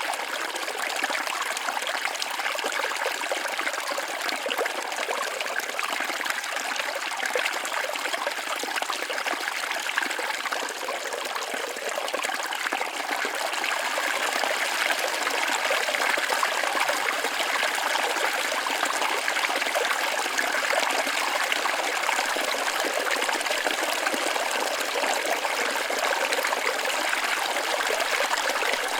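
Small forest waterfall splashing and trickling over rocks, a steady rush of falling water that grows slightly louder about halfway through.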